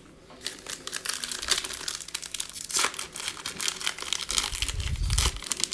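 Foil trading-card pack wrapper crinkling as it is torn open and handled, a dense run of sharp crackles, with a few low thuds near the end.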